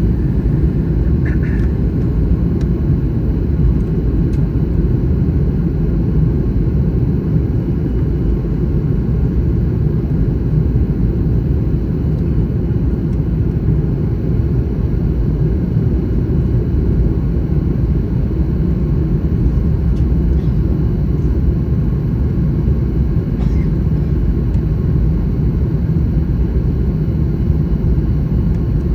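Steady low rumble of a Boeing 737 MAX 9 airliner, holding an even level throughout.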